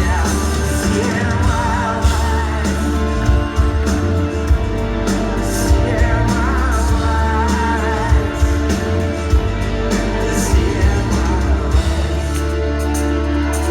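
Rock band playing live, with a singer over a heavy bass line and regular drum hits.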